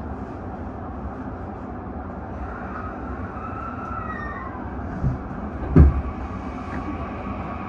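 JR E235 series commuter train running slowly, with the whine of its Toshiba hybrid SiC VVVF inverter drive rising and then falling back in pitch in the middle. Two low clunks come about five and six seconds in, the second the loudest.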